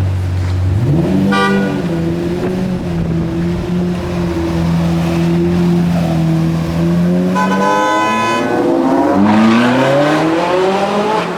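Lamborghini Murcielago LP670-4 SuperVeloce's 6.5-litre V12 through a Tubi exhaust, running at a steady low drone and then rising in pitch as it accelerates near the end. A car horn honks twice: briefly about a second in, and for about a second near the middle.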